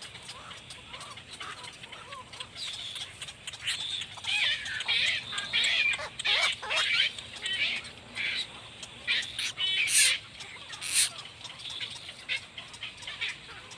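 Blackbirds calling at their nest with the nestlings: bursts of rapid, high chattering calls from about four seconds in, and two sharp, very high notes later on.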